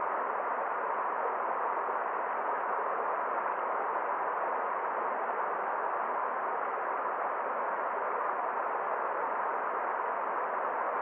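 Forest stream flowing: a steady, unchanging rush of water.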